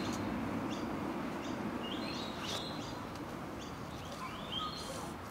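Small birds chirping, short rising calls repeated every second or so, over a steady low background noise.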